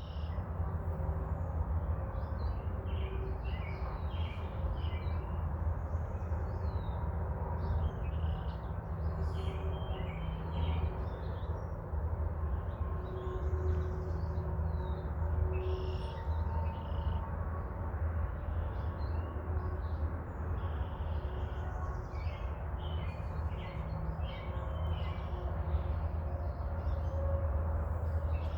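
A chorus of small songbirds chirping and singing throughout, with the low, soft cooing of a mourning dove at a few points. A steady low rumble runs underneath.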